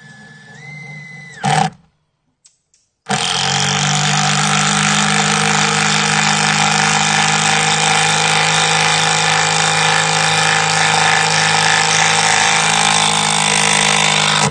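Power driver sinking a 4-inch screw through a wooden stair stringer. A short whine that steps in pitch ends in a sharp knock, and after a short pause the driver runs loud and steady for about eleven seconds, then cuts off suddenly.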